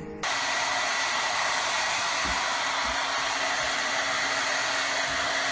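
A steady blowing noise like a small electric blower running, with a faint high whine, starting suddenly just after the start and cutting off abruptly near the end.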